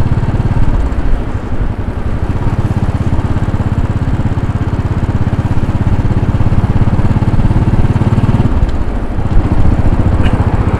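2010 Royal Enfield Bullet 500's single-cylinder engine running steadily as the motorcycle rides along, easing off briefly about a second in and again near the end.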